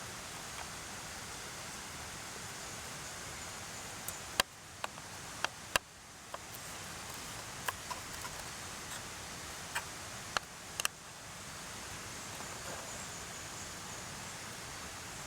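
Steady rushing hiss of a mountain stream. From about four seconds in to about eleven seconds there is a run of about a dozen sharp, light clicks and knocks from camp cooking gear being handled.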